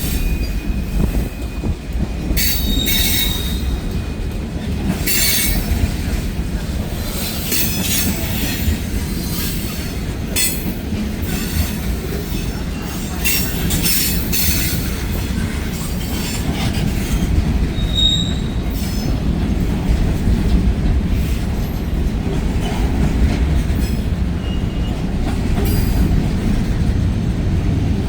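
Freight train cars rolling steadily past with a continuous low rumble, intermittent high-pitched wheel squeals and clicks of wheels over the rail joints.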